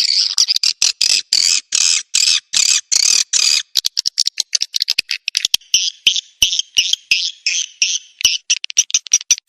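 Swiftlet lure-call recording playing: rapid trains of high, buzzy swiftlet chirps with sharp clicks among them. The chirps are longer at first, then shorter and faster from about four seconds in.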